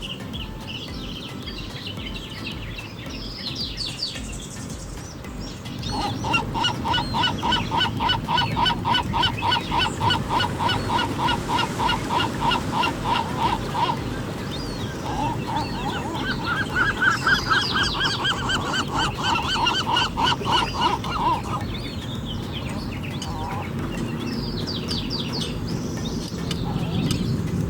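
Gulls calling in long runs of rapid, repeated honking notes, about five or six a second. There are two runs: one starts about six seconds in, and the second comes after a short break and climbs higher in its middle. Between and around the runs are a steady background rush and faint high chirps.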